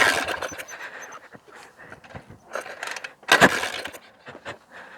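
PitPro 140cc pit bike being turned over with the choke on and not catching, two loud start attempts, one at the start and one about three and a half seconds in, with no running engine note between them. The failure to start is a sign of a flooded engine, which the rider puts down to a rich carburettor and a probably wet plug.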